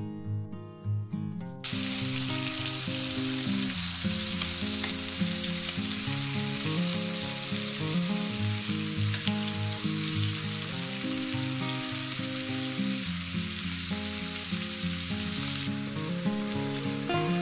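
Chicken breasts and diced red onion sizzling in hot oil in a frying pan, a steady hiss that starts suddenly about two seconds in. Background music plays underneath.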